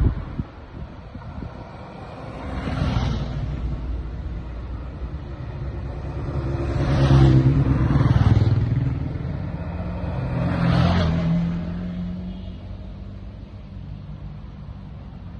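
Motorcycles riding past one after another, each engine swelling and fading: three main passes, the loudest about halfway through, then a last one that dies away near the end.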